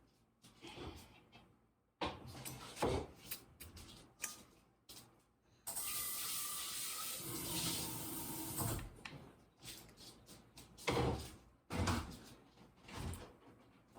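Scattered knocks and clicks of things being handled, with about three seconds of water running from a tap near the middle.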